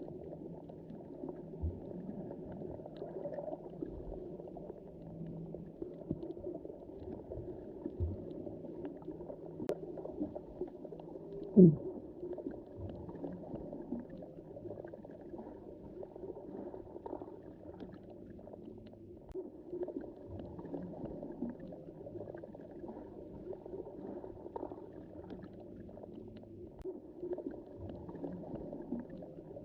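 Underwater sea ambience: a steady, muffled wash of water with scattered faint clicks. About twelve seconds in comes one short, loud rising squeak.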